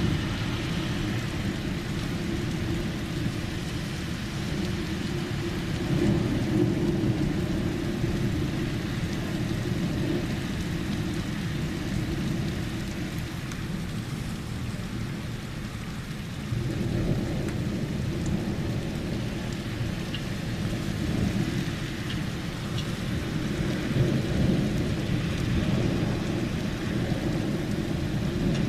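Steady rain falling, with rolling thunder rumbling underneath. The rumble swells about six seconds in, eases off, and builds again a little past the middle.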